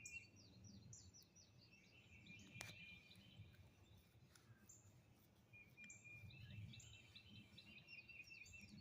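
Faint birds calling: many short, high, falling chirps repeating over and over, with a thin, even trill underneath.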